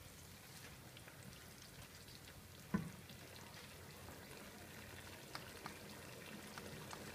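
Chicken and yogurt curry frying faintly in a nonstick pan on a gas flame, with scattered small crackles as the yogurt's water cooks off before the ghee separates. A single sharp knock about three seconds in.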